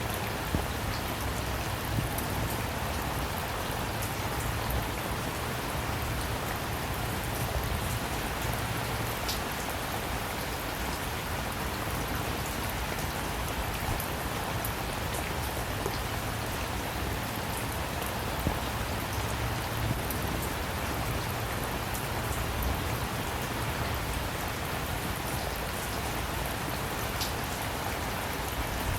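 Steady rain falling, with scattered individual drops tapping louder now and then.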